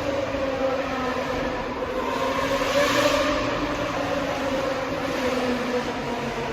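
Lamborghini Gallardo Superleggera's 5.0-litre V10 with an aftermarket exhaust running under way, heard from the ride-along seat. It swells louder about three seconds in, then eases slightly in pitch.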